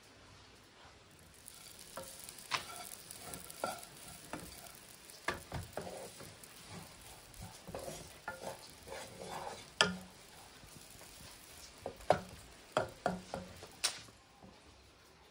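Barberries frying in melting butter in a small nonstick saucepan, sizzling as a wooden spoon stirs and scrapes them. The spoon knocks sharply against the pan several times near the end.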